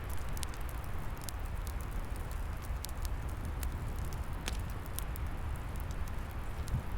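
Log fire crackling, with scattered sharp pops and ticks over a steady rushing noise and a low rumble.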